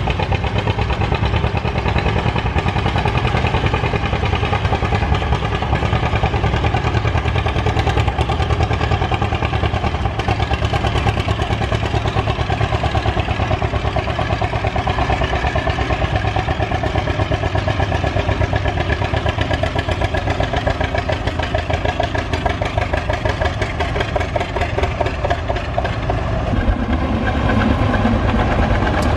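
Tractor engine running steadily with a fast, even firing beat; about three-quarters of the way through its note changes and grows a little louder.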